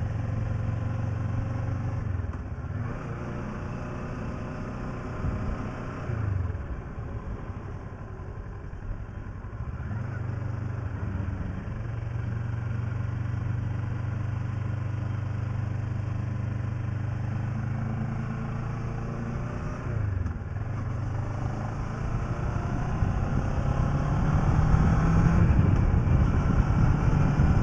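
Kawasaki ER-6f's 649 cc parallel-twin engine running under way, with wind noise on the microphone; the engine note dips briefly a few times and rises near the end as the bike accelerates.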